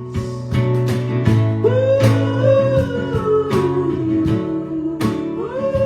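Live acoustic band music: acoustic guitars strumming chords, with a held melody line above them that slides down and then back up near the end.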